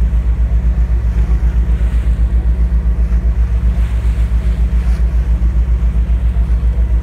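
Ferry engine throbbing steadily in a deep, rapid pulse of about eight beats a second, with faint wind and water noise over it.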